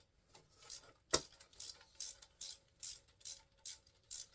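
Hand ratchet wrench being worked back and forth on an engine bolt, its pawl clicking in a steady rhythm of about two to three clicks a second.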